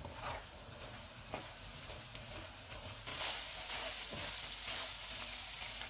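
Spiced beef mince sizzling in oil in a non-stick wok on a medium flame, stirred with a spatula, with a few light knocks of the spatula on the pan. The sizzle gets louder about halfway through.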